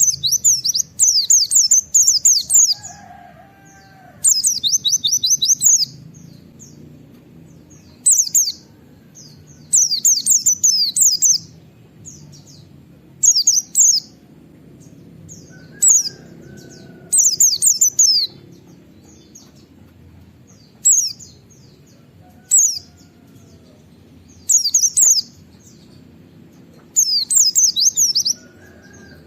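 White-eye (pleci) singing its rapid 'nembak' song: repeated bursts of fast, high-pitched chirping notes, each burst a second or two long with short pauses between. A few faint, lower whistled notes sound now and then underneath.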